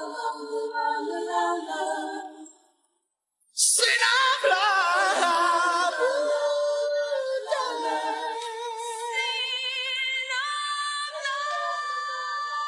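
Isolated male lead vocal singing without accompaniment, in long held, wordless notes with vibrato. It fades out about three seconds in, breaks off into a moment of silence, then comes back suddenly on a strong held note.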